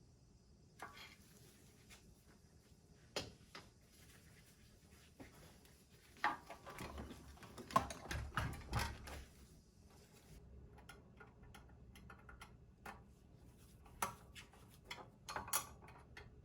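Small metal parts and tools being handled during reassembly of an espresso machine boiler: scattered faint clicks and clinks, with a denser spell of knocking and rattling about halfway through.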